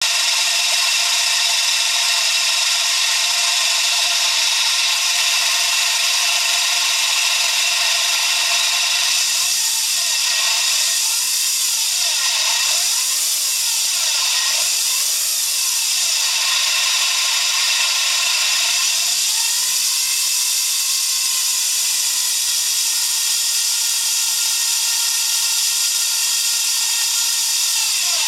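Alternator on a Daihatsu Hijet S321V making an abnormal noise: a steady, high-pitched mechanical whine whose pitch stays constant throughout.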